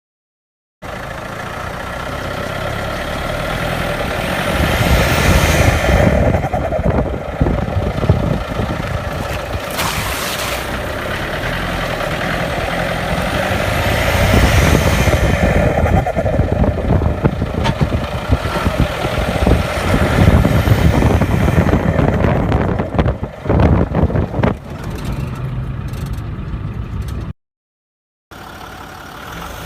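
Turbodiesel Land Rover engine revved hard several times, the turbo's whistle rising with each rev, then a rapid choppy flutter as the throttle is lifted: compressor surge from a variable-vane turbo. The sound drops out briefly near the end and another engine idles.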